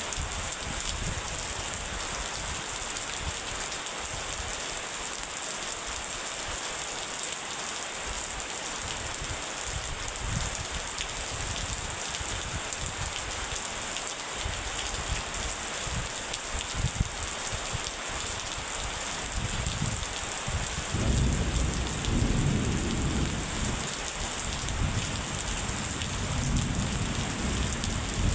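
Steady rain falling in an even hiss. A low rumble of thunder rolls in about three-quarters of the way through.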